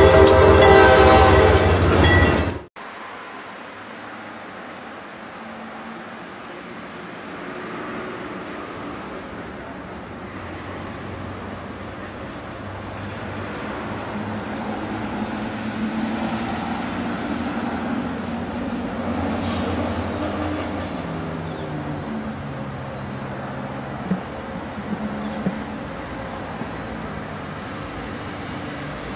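A loud train horn chord sounds for the first two and a half seconds and cuts off abruptly. Then an Amtrak diesel locomotive approaches slowly in the distance, its engine drone growing louder and shifting in pitch, with a few light clicks near the end.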